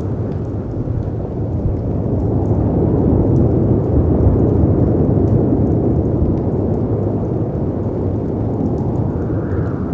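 Layered storm ambience: a deep wash of wind and breaking sea waves swells through the middle and eases off, with faint crackles from a fireplace over it.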